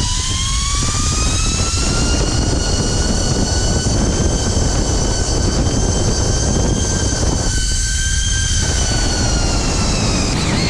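Zipline trolley pulleys whining on the steel cable during a ride, with wind rushing over the microphone. The whine climbs in pitch as the rider picks up speed, holds steady, then falls away near the end as the trolley slows.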